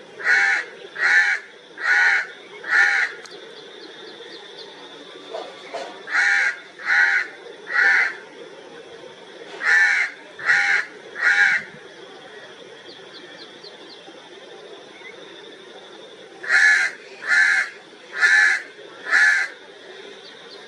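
Crow cawing in runs of three or four harsh caws, about one caw a second, with pauses of a few seconds between the runs.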